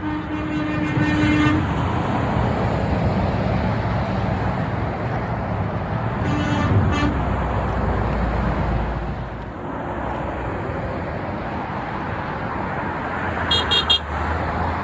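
Heavy trucks passing on a highway with steady tyre and engine noise. A truck horn sounds for about a second and a half at the start, again briefly about six seconds in, and gives three quick toots near the end.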